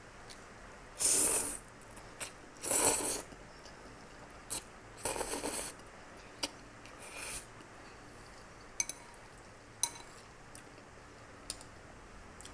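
Eating sounds close to the microphone while spaghetti is eaten: four short scraping, rustling bursts and a few scattered sharp clicks.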